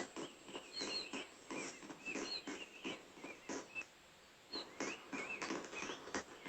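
Birds chirping: many short, high chirps in quick succession.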